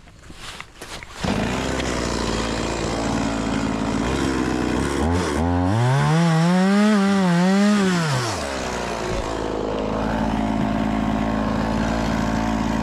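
Stihl MS 180 C-BE two-stroke chainsaw starting about a second in and idling. Around five seconds in it is revved up to a high, wavering pitch for about three seconds, then drops back to idle.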